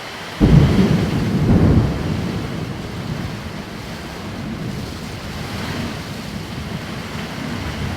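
A thunderclap breaks suddenly about half a second in and swells again a second later, then fades into a long rolling rumble, over the steady hiss of rain.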